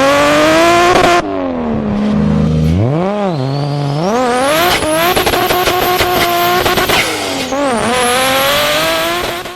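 Car engine revving up and down several times, with a thin high squeal climbing over it about three seconds in and holding. The sound cuts off at the end.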